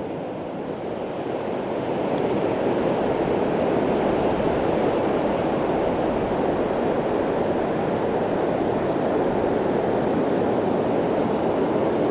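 Steady rushing noise of Gulf surf and wind on the beach, no clear tones, slightly louder from about two seconds in.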